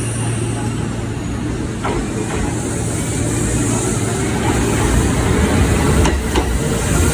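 Kintetsu 9200-series and 1253-series electric multiple-unit train at a station platform: a steady rumble and hiss from the running train, with a low hum and a few sharp clicks about two seconds in and again near the end.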